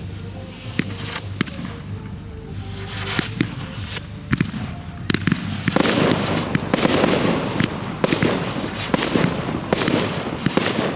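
Professional display fireworks going off: separate sharp bangs of shell bursts, then about halfway through a dense run of crackling and rapid reports takes over.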